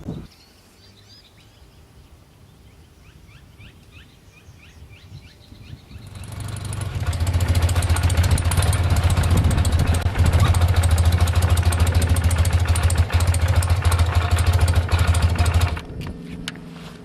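Birds chirping in a quiet stretch, then a motorcycle engine comes in loud about six seconds in, runs steadily with a deep hum, and cuts off suddenly near the end.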